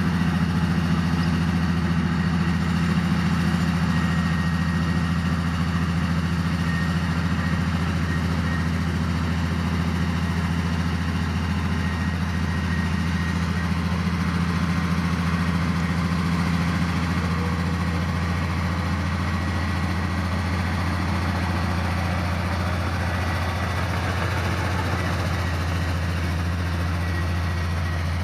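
Heavy diesel engine of earthmoving equipment running steadily at an even pitch, a constant low drone with no revving.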